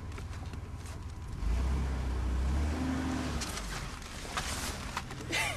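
Car engine running, heard from inside the cabin; the low rumble gets louder about a second and a half in and eases back about two seconds later.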